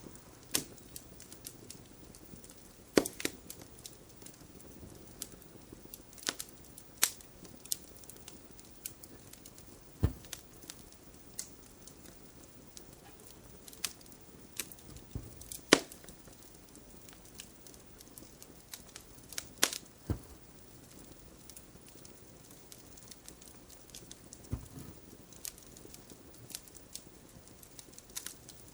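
Wood fire crackling in a fireplace: irregular sharp pops and snaps, a few of them loud, over a soft steady hiss.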